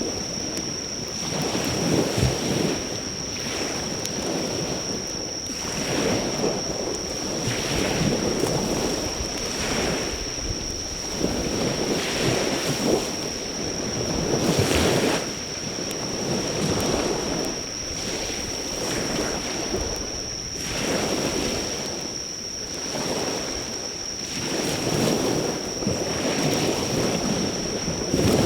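Surf breaking and washing up on a beach in repeated swells every couple of seconds, over a steady high-pitched insect trill. Now and then a driftwood fire gives a faint crackle under the waves.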